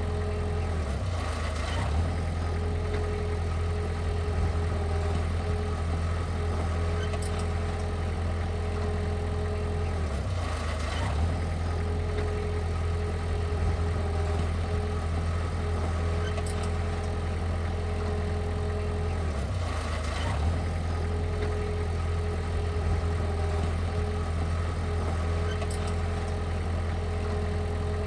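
Heavy-equipment diesel engine running steadily with a deep, even hum. A brief change in the sound recurs about every nine seconds.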